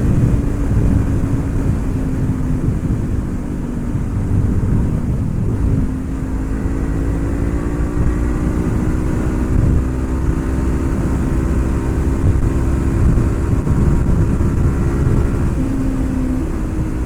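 Honda CB500F's parallel-twin engine pulling steadily under way, with wind rumble on the microphone. The engine note drops about a third of the way in, then climbs slowly again as the bike gathers speed.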